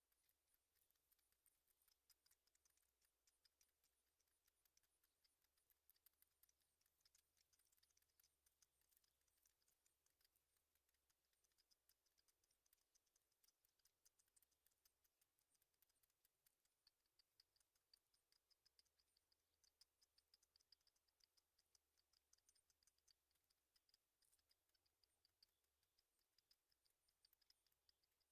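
Near silence, with faint, rapid high-pitched ticking throughout.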